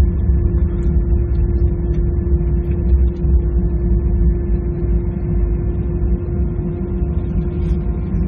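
Cabin noise of an Airbus A320-214 on the ground after landing: a steady low rumble from the idling engines and rolling airframe, with a constant hum running through it.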